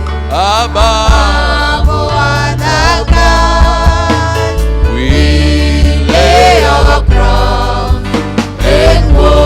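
Gospel worship song: voices singing drawn-out, gliding lines over a band with a heavy, steady bass.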